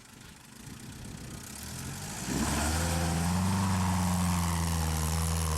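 UAZ off-roader's engine, faint at first and growing louder, then about two seconds in coming in loud and holding a steady engine note under load.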